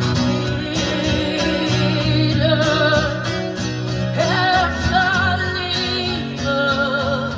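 Live song with acoustic guitar strumming and a singer holding long notes with vibrato from about two seconds in.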